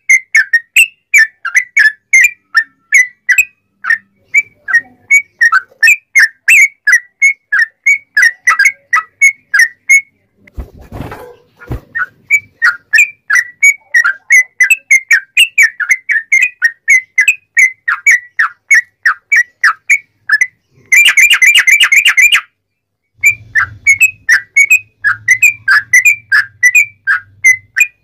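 Yellow-vented bulbul (trucuk) singing a long run of clear, rapid whistled notes, about three or four a second, with a fast dense trill about three quarters of the way through. A brief dull thump breaks the song about ten seconds in, and a low hum comes in near the end.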